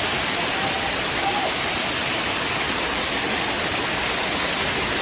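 Steady, loud rush of water cascading over the rocks of Dunn's River Falls.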